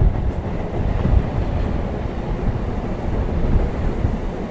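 Electric suburban local train running at speed, heard at an open window: a steady, heavy rumble and rush of wheels on the track. Another local train passes on the next track.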